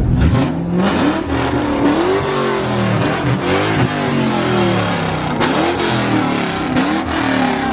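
Car engine revving repeatedly, its pitch rising and falling again and again.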